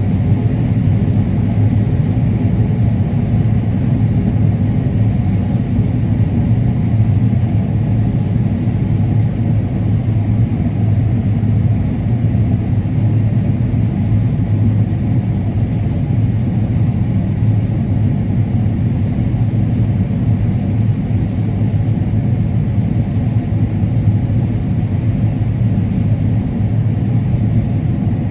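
Combine harvester running steadily while harvesting corn: a constant, loud low drone of engine and threshing machinery with no change in pitch.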